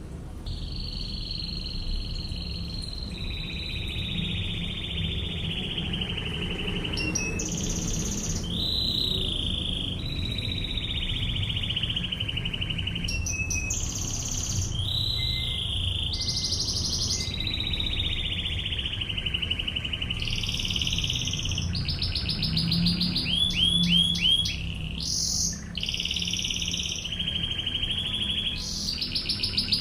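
Canary singing a continuous run of rapid trilled phrases, each a second or a few long and switching pitch from one to the next, with faster phrases of separate quick notes near the end: the fast drilling 'ngebren' trill used as training song for other canaries.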